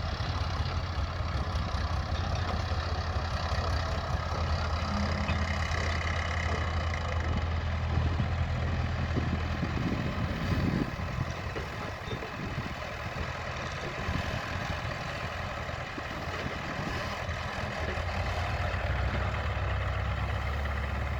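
Tractor's diesel engine running steadily at pond excavation work. It eases off a little about halfway through, then picks up again near the end.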